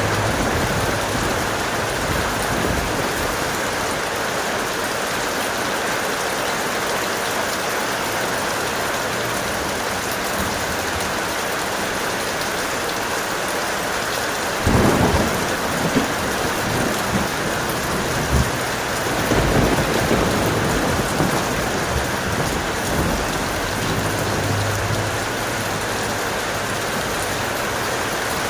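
Heavy rain falling steadily, with thunder rumbling about halfway through and again a few seconds later.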